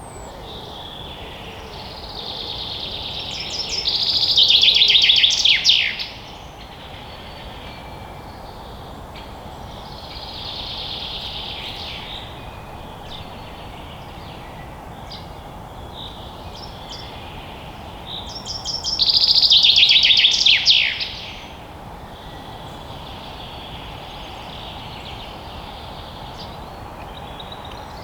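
Forest ambience with a songbird singing: two loud songs, about a quarter and two thirds of the way in, each ending in a fast run of notes falling in pitch, and a fainter song between them, over a steady low hiss.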